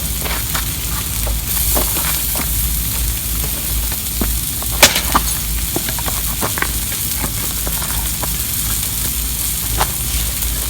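Wood campfire crackling: a steady hiss with scattered pops, and one sharper snap about five seconds in.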